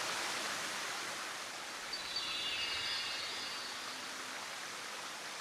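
Steady rushing of a mountain stream, with a brief high-pitched call about two seconds in.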